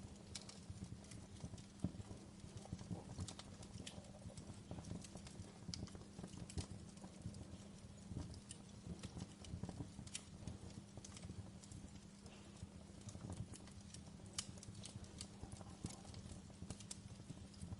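Log fire burning, with irregular sharp crackles and pops of the burning wood over a low steady rumble of the flames; a few pops stand out louder, about two seconds in and near the fourteen-second mark.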